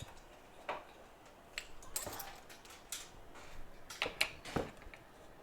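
Small tools and parts handled on a repair bench: a handful of light, sharp metallic clicks and clinks, irregularly spaced, with a cluster about two seconds in and another about four seconds in.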